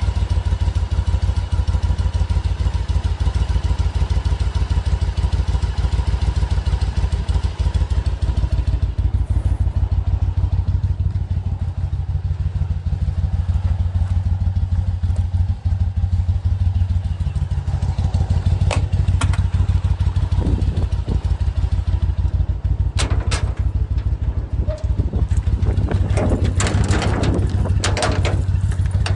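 Yamaha BT1100 Bulldog's V-twin running steadily through LeoVince SBK silencers, at an even, unrevved speed. Several sharp clicks and a clatter sound over it in the latter part, most of them near the end.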